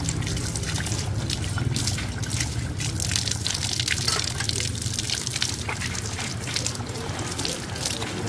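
Water trickling and splashing unevenly, with many small irregular crackles.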